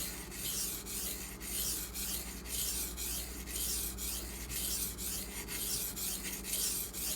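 Steel knife blade stroked back and forth on a Pride Abrasive 600 grit waterstone, a steady rasp in strokes about two a second. The stone is friable and sheds grit, so it works up a sandy mud under the blade.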